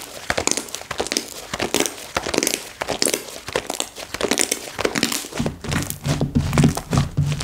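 Slime being squeezed and worked by hand, making rapid crackling, clicking pops. About five seconds in, a lower pulsing sound joins.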